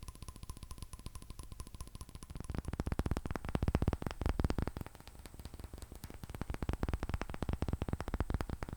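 Fingernails tapping fast on a hard surface, a rapid run of clicks that grows louder about two and a half seconds in.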